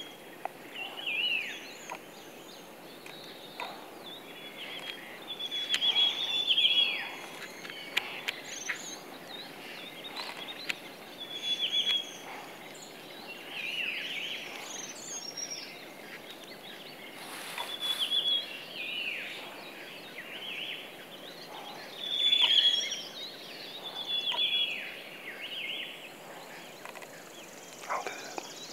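Birds chirping, among them a pheasant the uploader labels a spotted munal: short calls every two seconds or so, each a high note with quick falling strokes, and thin higher chirps between them.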